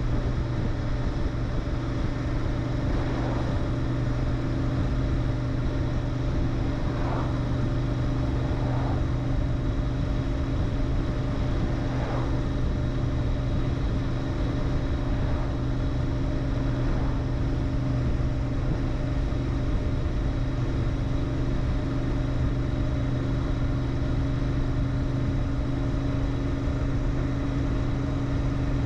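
Royal Enfield Interceptor 650's 648 cc parallel-twin engine running through its stock muffler, a steady, unchanging exhaust note.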